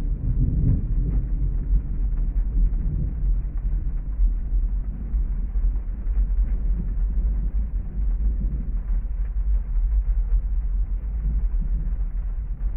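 Heavy thunderstorm rain with a continuous deep rumble, heard muffled; the rumble swells in the first couple of seconds.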